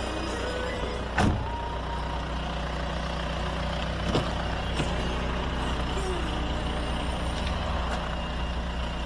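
Opel Omega 2.0 DTI four-cylinder turbodiesel engine idling steadily. A sharp knock about a second in and a lighter click about four seconds in stand out over it.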